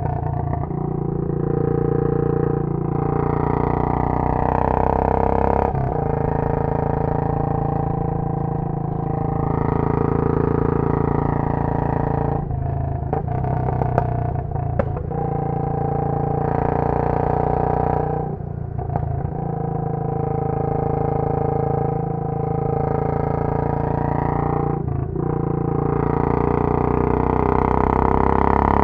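Royal Enfield Bullet 500's single-cylinder engine, heard through a Punjab long bottle silencer while ridden, with the exhaust note rising and falling as the throttle opens and closes. There are brief dips about a dozen seconds apart, typical of gear changes or lifting off for bends.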